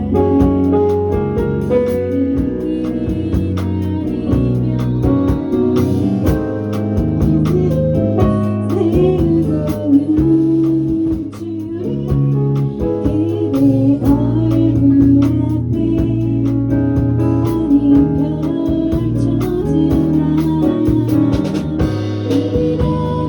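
A live band rehearsing a song: keyboard, guitar and bass with a steady drum beat, and a voice singing the melody from about eight seconds in.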